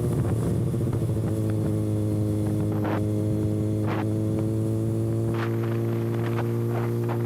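Kawasaki ZX-6R inline-four motorcycle engine running at steady revs through an exhaust with no muffler canister, a constant even drone with a few faint ticks.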